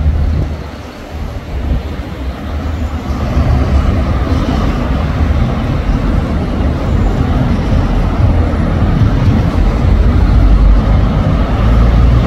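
Loud street noise of passing traffic mixed with wind rumbling on the microphone, dipping briefly about a second in and then steady.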